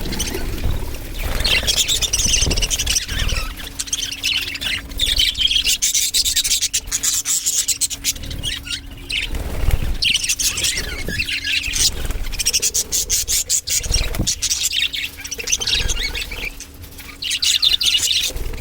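Budgerigars chirping and chattering without pause, a dense mix of quick high chirps and clicks.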